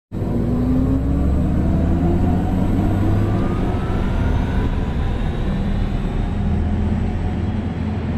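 Audi e-tron GT driving: a steady low hum and rumble of road and wind noise, with a faint whine slowly rising in pitch over the first few seconds. It starts abruptly out of silence.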